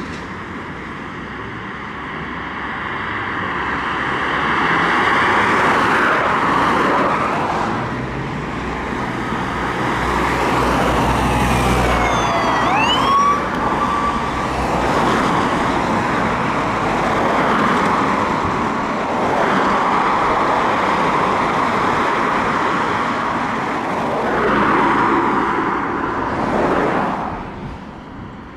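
Emergency vehicle sirens sounding over road traffic, swelling and fading as vehicles go by, with a sweeping rise and fall in pitch about halfway through.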